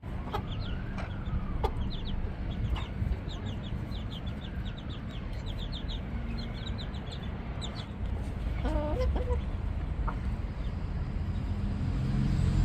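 Backyard chickens clucking, with many quick high chirps or peeps throughout and a louder, downward-falling call about nine seconds in, over a steady low background rumble.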